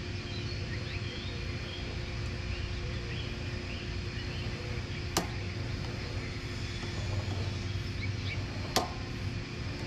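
A steady low hum with a faint steady higher tone, and two sharp clicks about three and a half seconds apart.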